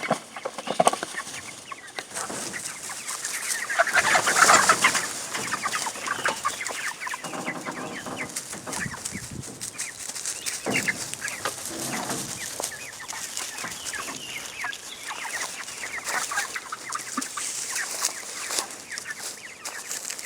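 A flock of Cornish Cross meat chickens clucking and calling, many short overlapping calls, with a louder stretch about four seconds in.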